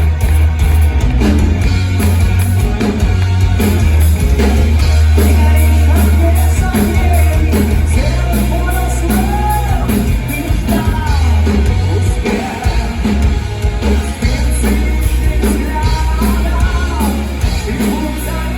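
Live rock band playing with heavy bass and drums, with a sung vocal line coming in about eight seconds in.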